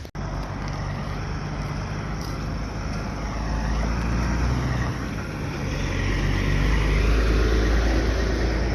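A motor vehicle's engine running with a steady low hum, growing louder about six seconds in.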